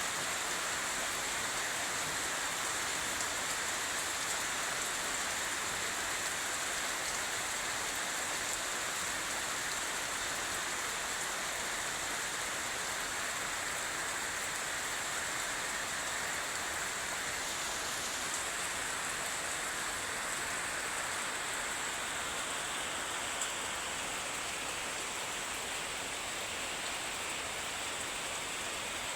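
Steady rainfall, an even unbroken hiss of rain falling on surfaces.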